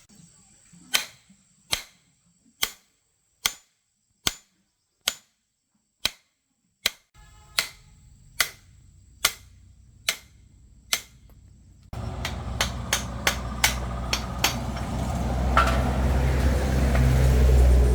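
Sharp, evenly spaced knocks, a little more than one a second, typical of hammer taps on metal. About twelve seconds in, a low machine rumble starts suddenly and grows louder, with quicker knocks over it.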